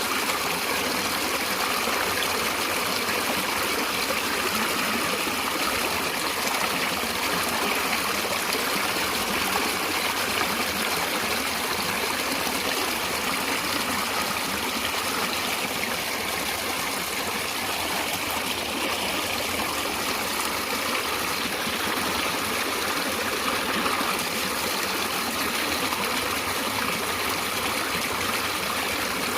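Flowing stream water, a steady rushing babble with no breaks or changes.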